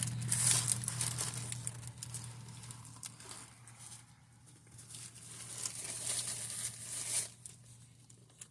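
Food wrapper crinkling and rustling in two stretches, the first at the start and the second from about halfway until near the end, over a low steady hum.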